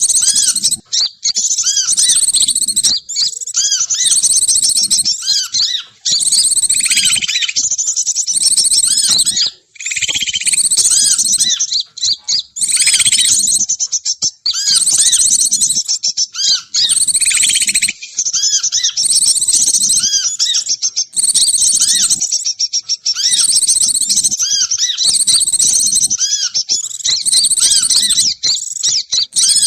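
Bird-lure recording: loud, dense high-pitched chirping and twittering with repeated short arched whistle notes, running almost without pause.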